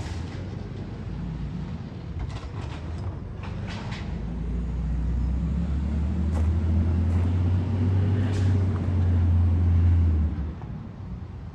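Garbage truck engine running, swelling into a loud low drone from about four seconds in that falls away sharply near the end, with a few short knocks and clanks.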